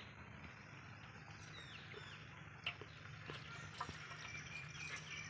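Faint outdoor background with a low steady hum, a few short distant bird chirps and a couple of light clicks.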